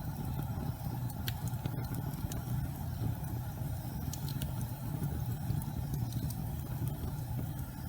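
Fireplace fire burning with a steady low rumble, broken by a few sharp crackles.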